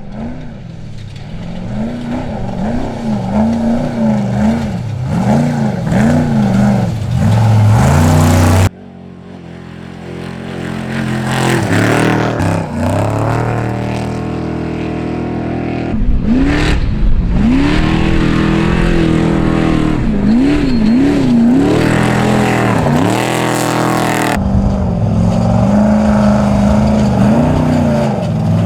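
Off-road race truck engines revving hard, the pitch climbing and dropping again and again as they shift through gears at speed. The sound comes in several spliced clips that cut off abruptly, about every eight seconds.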